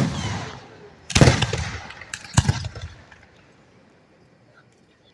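Aerial firework shells bursting overhead: two sharp booms about a second and a half apart, each trailing off in a rumbling echo.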